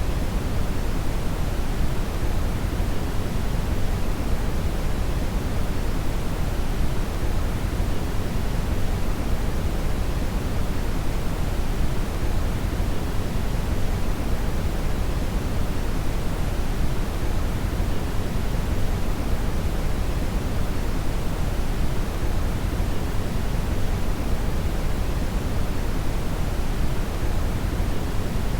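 Synthetic brown (red) noise: a steady, even rush of noise weighted toward the low end, with no changes.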